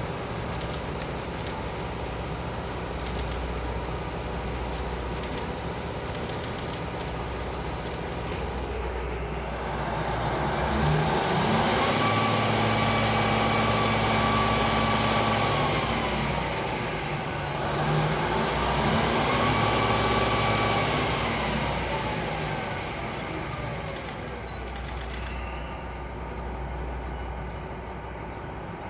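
KiHa 40 diesel railcar's engine idling after start-up, revved up twice: each time the pitch rises, holds high for a few seconds, then winds back down to idle.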